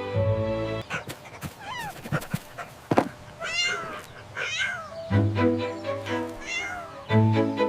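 A cat meowing about five times in short, high, bending calls. Background music stops just before the meows begin and returns about five seconds in.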